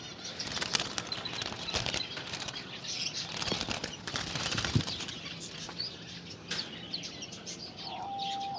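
Caged birds fluttering their wings in short bursts, with small high chirps among them.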